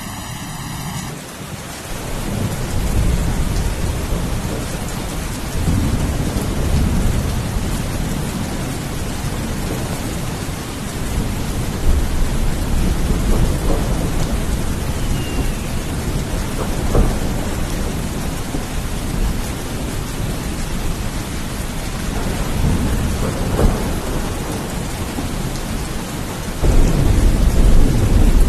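Steady heavy rain with thunder rumbling in repeated rolls; a louder roll of thunder sets in near the end.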